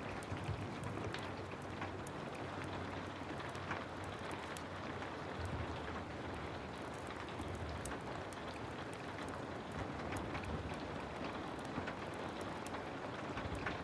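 Heavy rain falling steadily, with scattered sharp ticks and crackles through it.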